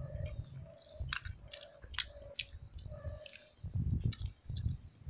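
A person chewing a mouthful of fried egg, with scattered small wet clicks of the mouth and lips.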